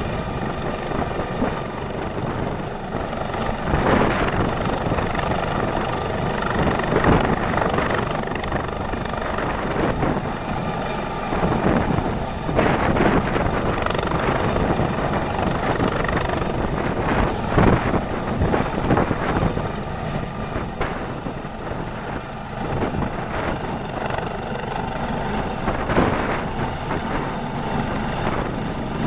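A military helicopter's rotor and turbine noise, heard up close as a loud, continuous roar that surges irregularly every few seconds.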